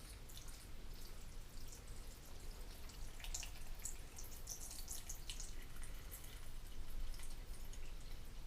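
Broth being poured into a Vitamix blender container over cooked vegetables and bacon: faint trickling and splashing with many small drips.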